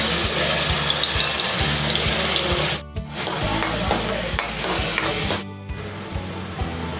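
Ground paste sizzling in hot oil in a metal kadai as a metal spoon stirs it, with background music underneath. The sizzle drops out briefly twice.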